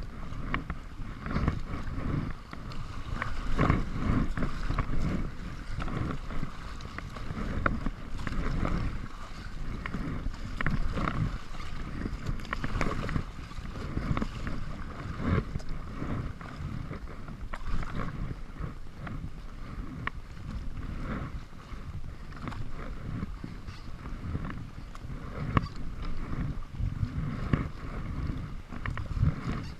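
Kayak paddle splashing in the water at irregular strokes, with wind rumbling on the microphone.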